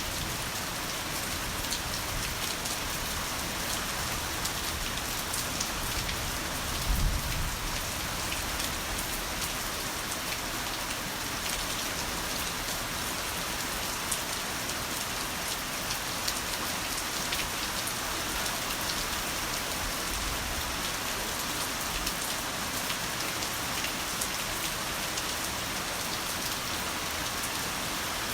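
Heavy rain falling steadily, a dense even hiss of rain on surfaces. About a quarter of the way in there is a brief low thump.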